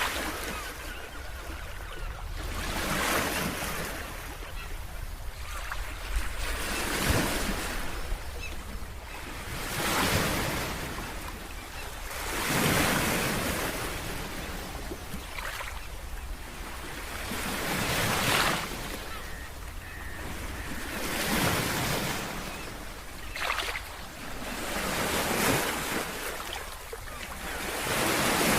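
Ocean waves breaking and washing on a shore, one swell rising and falling about every three seconds, over a steady low rumble of surf.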